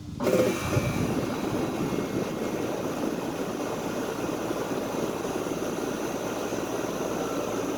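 Vintage Day & Night 2-ton air conditioner condenser unit starting up: a sudden jump in sound as its big reciprocating compressor and condenser fan kick on, then running steadily. The compressor is, in the owner's guess, an old Tecumseh.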